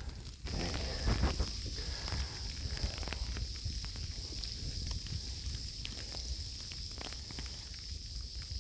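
Irregular crunching and rustling, like footsteps through snow, over a steady hiss.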